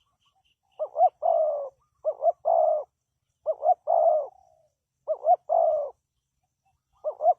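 Spotted dove cooing: a repeated phrase of two short coos followed by a longer coo, given five times with short pauses between.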